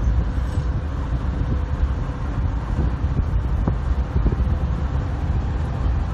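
Wind buffeting the microphone over the steady rumble of CSX diesel freight locomotives moving slowly across a trestle bridge.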